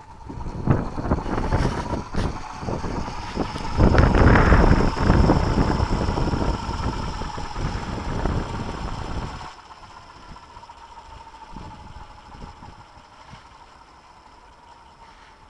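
Radio-controlled helicopter in flight, a steady whine from its rotor and drive. Gusty wind buffets the microphone heavily for the first nine seconds or so, loudest around four to five seconds in, then eases off suddenly, leaving the whine with only light wind.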